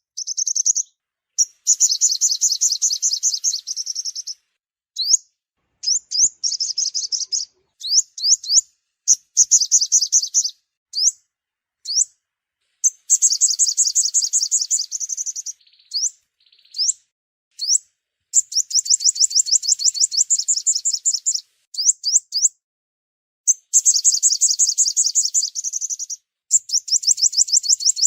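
Sunbird song: high, rapid trilled phrases of two to three seconds each, broken by short, sharp single chips and brief pauses.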